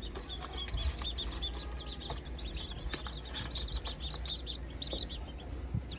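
A group of baby chicks peeping: many short, high peeps in quick succession, overlapping continuously.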